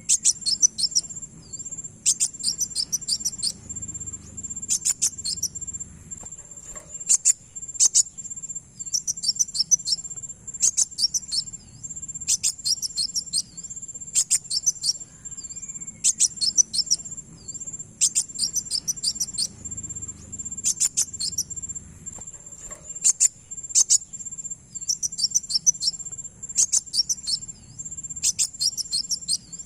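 Kowul (kolibri wulung sunbird) song played as a lure call: short bursts of rapid, high chirping come about every two seconds. Underneath runs a steady, high-pitched insect-like buzz.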